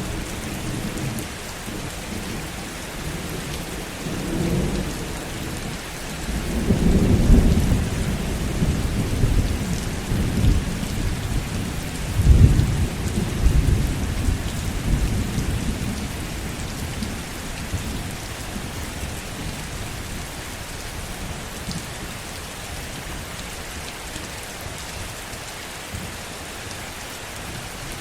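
Steady heavy rain with a thunderclap rumbling low about six seconds in, swelling again around twelve seconds and dying away after about sixteen seconds.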